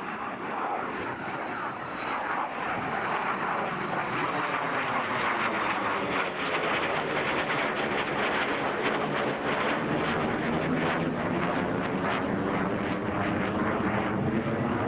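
Military fighter jet engine roar as a jet flies past. The noise builds over the first few seconds, then holds loud and steady, with a slowly shifting, swirling tone.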